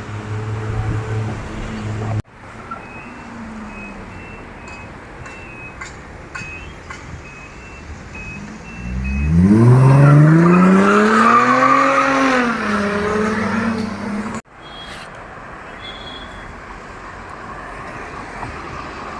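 A sports car's engine revs hard about halfway through, its note climbing steeply to a peak and then falling back. This is the loudest sound, set against steady street traffic noise.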